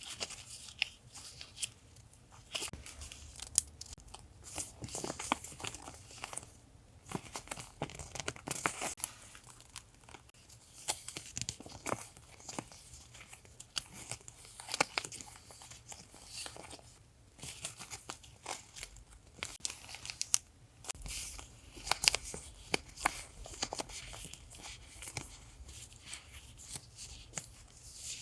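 Paper and packaging being handled and torn open: irregular crinkling and tearing with small ticks and rustles, broken by a few short pauses.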